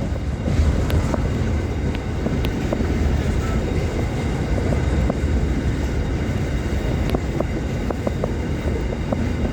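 Diesel freight train rolling past, the locomotive running and hopper wagons rumbling steadily, with scattered sharp clicks that come more often near the end.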